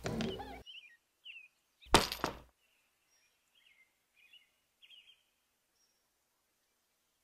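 Birds chirping faintly and intermittently, with short scattered calls. About two seconds in comes a single sudden loud sound lasting about half a second.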